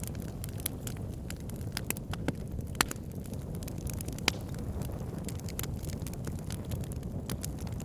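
Wood fire burning in a fireplace: a steady low rumble of flames with frequent irregular crackles and sharp pops, two of them louder, near three and four seconds in.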